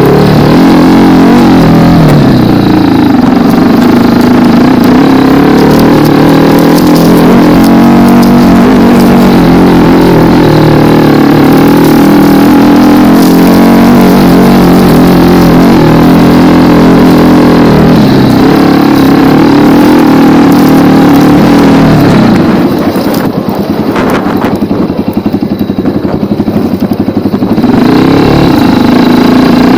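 Racer Panther 250 dirt bike's 172FMM 250 cc single-cylinder four-stroke engine running hard under throttle while riding, its pitch rising and falling with the revs. About 22 seconds in it drops back to a lower, quieter note for about five seconds, then picks up again.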